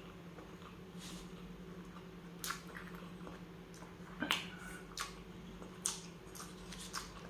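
A person chewing and eating, with a handful of short, sharp mouth smacks and clicks spaced through the moment.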